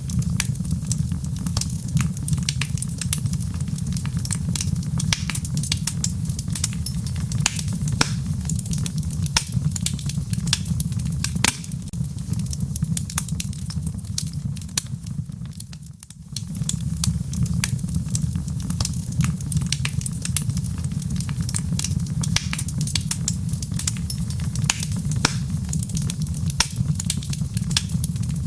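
Wood fire in a fireplace crackling, with many sharp irregular pops over a steady low rumble. The rumble fades briefly about halfway through, then comes back.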